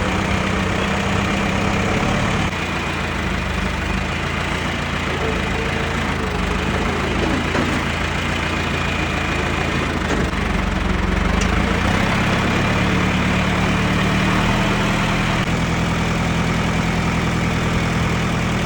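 Tractor engine running steadily, its pitch shifting a couple of times. A faint whine dips and rises partway through.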